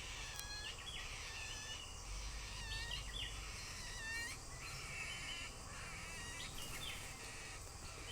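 Birds chirping and calling over and over, many short calls overlapping one another, over a steady low background noise.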